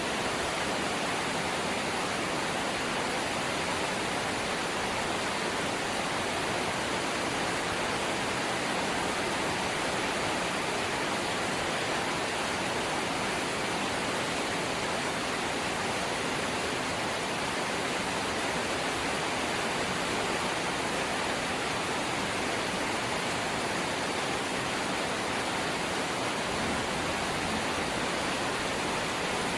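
Light rain falling, a steady even hiss with no separate drops or gusts standing out.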